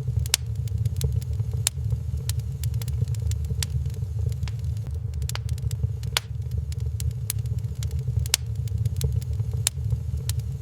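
Wood fire crackling in a fireplace: frequent sharp pops and snaps, several a second, over a steady low rumble.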